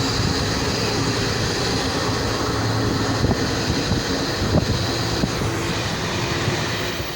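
Passenger train running: a steady rumble from the wheels and carriage, with wind on the microphone and a few faint knocks.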